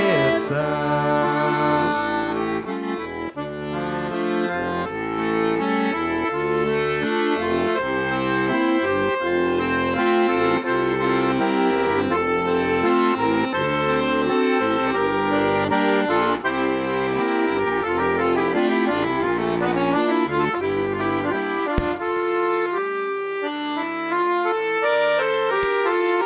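Accordion playing an instrumental break in a Russian folk song: a melody over rhythmic bass-and-chord accompaniment. The bass stops about four seconds before the end, leaving only the melody and chords.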